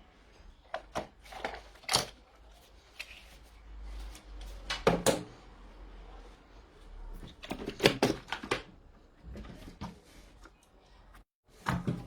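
Irregular clicks, taps and knocks of objects being handled, some coming in quick pairs, over a faint low hum.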